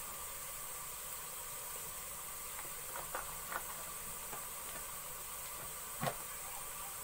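Onions frying in hot oil, sizzling steadily, with a few faint clicks and one sharper click about six seconds in.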